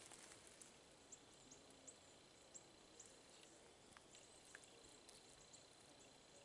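Near silence, with faint, short, high chirps of birds about once or twice a second.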